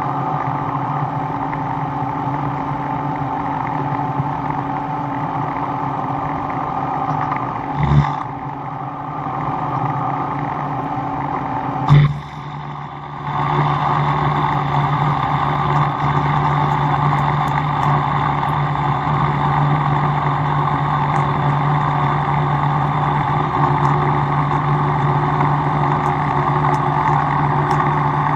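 Steady drone of a motor-driven shop machine running, with a sharp knock about eight seconds in and another about twelve seconds in. After the second knock it briefly drops off, then comes back slightly louder and steady.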